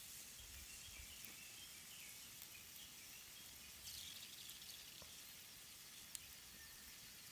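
Quiet outdoor ambience: a faint steady hiss with soft bird chirps and a few light clicks.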